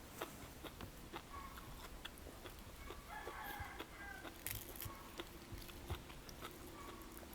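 A rooster crowing faintly, about three seconds in, over soft clicks of eating.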